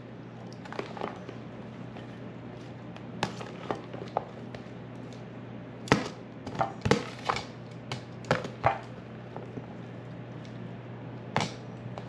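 Salad being moved into a serving bowl with kitchen utensils: scattered light knocks and clatters against the bowl, busiest in the middle, over a steady low hum.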